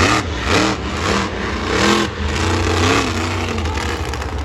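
Monster truck engine revving hard in repeated bursts, about one every half second to a second, over a steady low engine drone.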